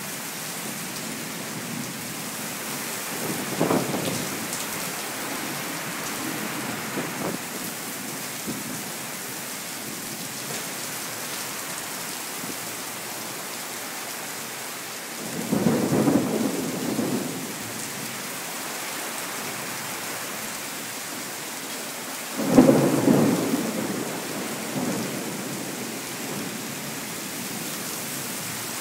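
Thunderstorm: steady heavy rain, with three claps of thunder that each rumble off over a second or two, a few seconds in, about halfway, and the loudest and sharpest about three-quarters through. Picked up on a phone's microphone, so the deepest rumble is missing.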